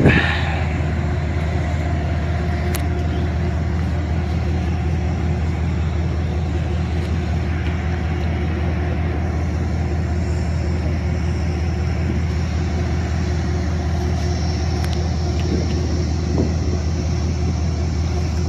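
Amtrak diesel passenger train rumbling steadily alongside the station platform as it pulls out, a constant low engine drone with a steady hum over it.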